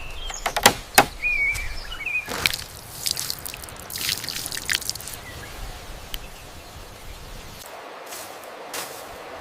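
Outdoor forest ambience with a bird chirping a few times in the first couple of seconds, and scattered sharp clicks and rustles of something being handled.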